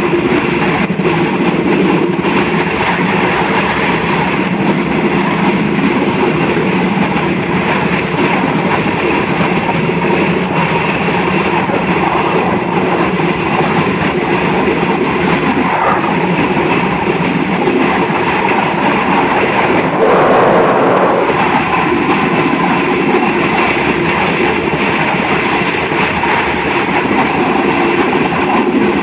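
Passenger train running along the track: a steady rumble and rattle of the carriage's wheels on the rails, briefly louder about twenty seconds in.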